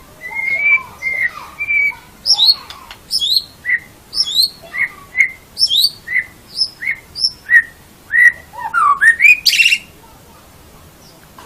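White-rumped shama (murai batu) singing a loud run of clear whistled notes. Some notes sweep sharply upward, and others are short notes repeated at one pitch. The phrase ends about ten seconds in with a brief harsh rattle.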